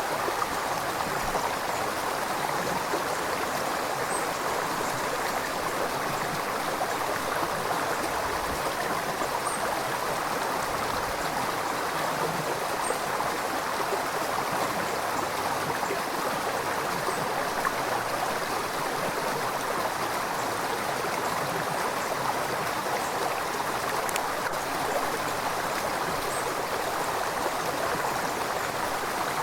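River water flowing and babbling over rocks: a steady, even rush.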